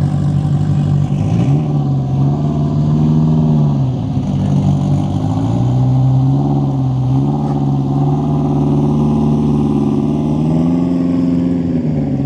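Vehicle engine running while driving, its pitch rising and falling several times as it speeds up and eases off.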